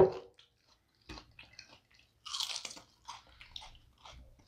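Close-miked biting and chewing of a birria taco dipped in consommé: scattered small wet smacks and crunches, with a louder crunchy burst a little past the middle.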